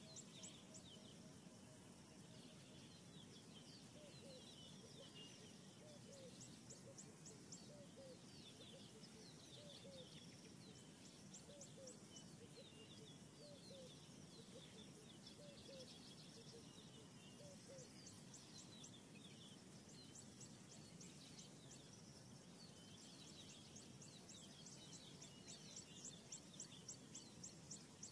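Faint birdsong: quick runs of high chirps repeating every few seconds, with lower chirping calls now and then, over a soft steady background hiss.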